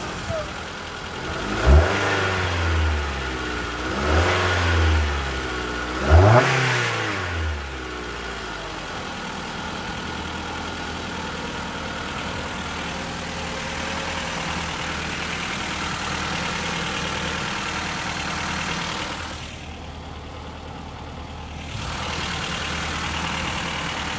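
A 2014 Mitsubishi Outlander's MIVEC petrol engine, just started, is blipped three times about two seconds apart, each rev rising and falling back, and then settles to a steady idle.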